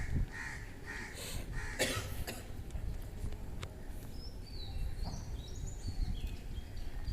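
A person coughs about two seconds in, over a low background rumble, with short bird calls early and high chirping bird calls around the middle.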